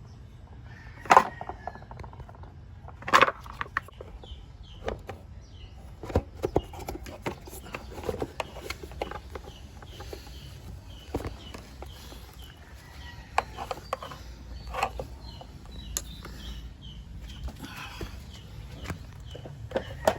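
Scattered clicks and knocks of parts and tools being handled during motorcycle filter work, with two sharp louder knocks in the first few seconds. Faint high chirps repeat at a steady pace through the second half.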